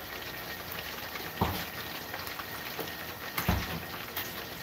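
Steady crackling hiss of rain on a wet driveway mixed with oil sizzling in a propane deep fryer. Two short low thumps come through about one and a half and three and a half seconds in.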